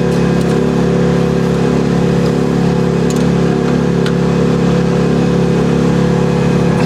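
Small gasoline engine of an HY14C mini excavator running steadily at a constant speed.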